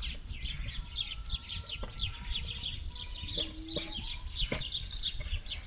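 Small birds chirping continuously, many short falling chirps several times a second, over a low rumble.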